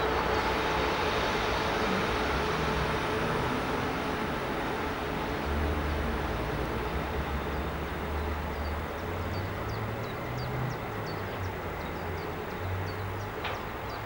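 A train running past on the line, its rumble and a steady hum slowly fading as it draws away. Short high chirps come in over the second half.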